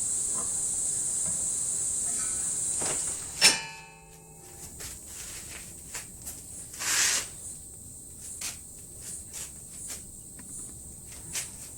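One sharp hammer blow on a sheet-steel repair panel clamped in a vise, about three and a half seconds in, ringing briefly, followed by lighter metallic clicks and knocks as the piece is handled. A steady high hiss runs until the blow.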